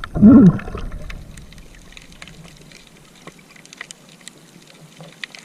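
Seawater trickling and splashing lightly, with scattered small clicks. A short voiced cry that rises and falls in pitch comes about half a second in and is the loudest sound.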